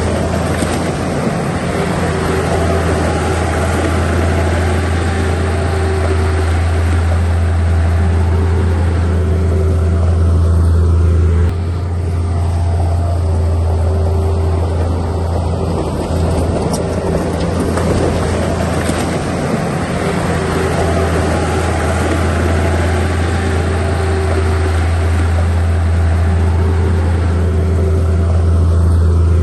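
Diesel engine of a heavy earthmoving machine running steadily, a deep continuous drone, shifting slightly in level about eleven seconds in.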